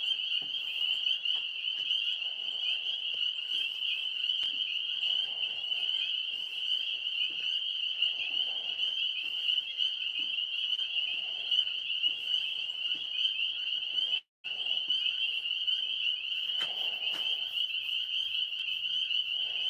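Chorus of tree frogs calling continuously in a dense, high, unbroken trill, with a lower call repeating about every three seconds. The sound cuts out for a split second about fourteen seconds in.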